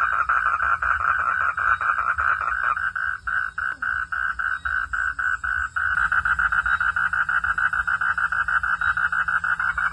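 A night chorus of frogs calling in rapid, regular pulses. About three seconds in it thins to a single pulsing caller at about four pulses a second, and the full chorus comes back abruptly near the six-second mark.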